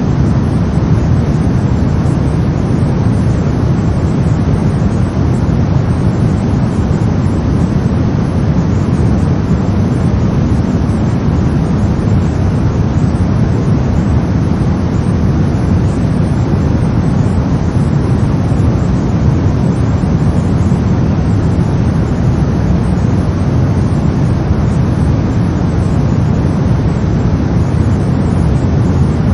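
Brown noise: a steady, deep rumbling hiss, strongest in the bass and thinning out towards the highs, with no change in level.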